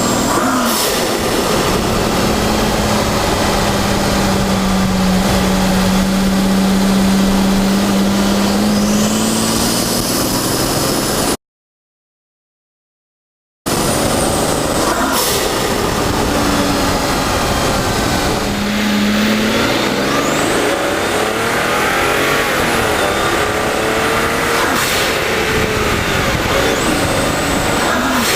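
Twin-turbo Mercedes-Benz CL600 M275 V12 engine while driving: the engine note rises and falls, and a high turbo whistle climbs as boost builds. There are a few sharp hisses of boost being released through the blow-off valve or wastegate. About 11 seconds in, the sound cuts out completely for about two seconds.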